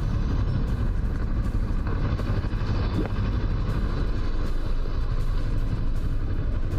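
Steady road-vehicle noise with a heavy low rumble, as when riding in traffic.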